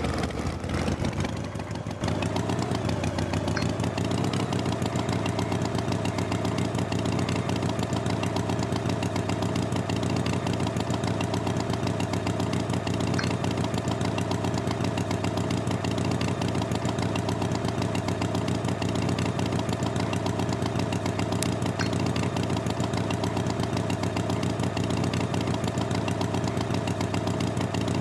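An engine idling at an even, steady rate, settling into the idle about two seconds in.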